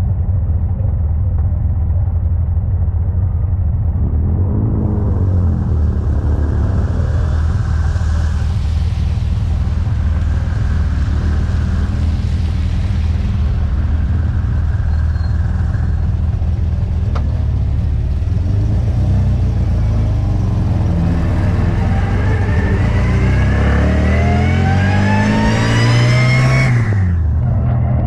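MGA race car's four-cylinder engine heard from onboard, running hard under load, with a rushing hiss joining about four seconds in. Over the last several seconds the revs climb steadily, then drop sharply near the end.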